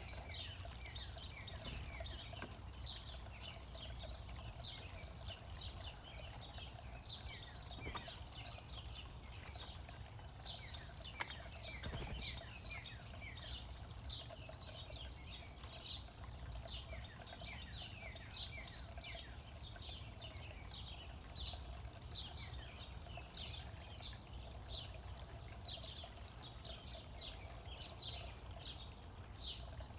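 Backyard birds calling: many short, high, falling chirps, several a second and overlapping, over a steady low rumble.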